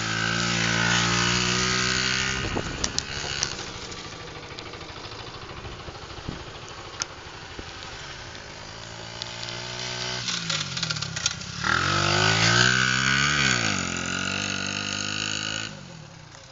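Pit bike engine revving as it is ridden around a dirt track: loud at first, quieter for several seconds, then the revs climb and fall again from about ten seconds in before the sound drops away sharply near the end.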